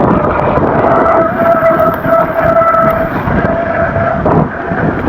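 E-mountain bike riding over a wet trail: rough tyre and wind noise throughout, with a steady high whine from the bike held for about three seconds in the middle.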